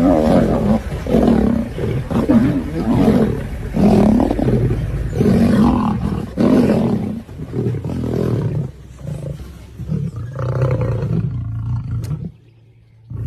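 Lion roaring in a series of deep calls about one a second, growing weaker after about eight seconds. The sound cuts out briefly near the end.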